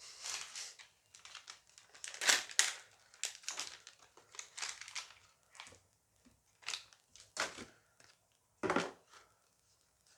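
A foil Dice Masters booster pack being crinkled and torn open by hand: irregular crackles, the loudest about two seconds in.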